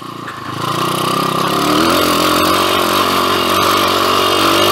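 2007 PitPro 140cc pit bike's single-cylinder four-stroke engine running under throttle. It grows louder over the first two seconds, then holds at a steady pitch.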